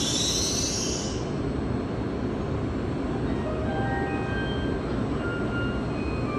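A Shinkansen train running slowly along the platform with a steady rumble. A high hiss dies away in the first second, and from about halfway faint short high tones come in at shifting pitches.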